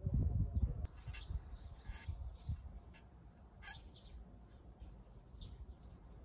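Small birds chirping in short, scattered calls, with some low thumps in the first second.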